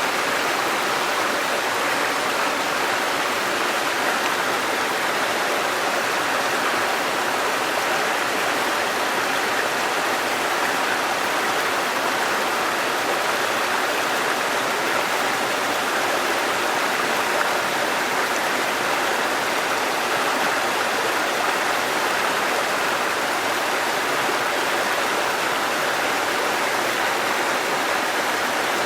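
Waterfall and rushing stream water, a steady even rush with no breaks.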